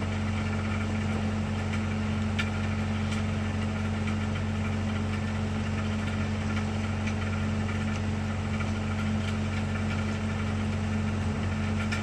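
Excavator's diesel engine idling steadily while the machine sits still, with a low, even hum and a few faint clicks.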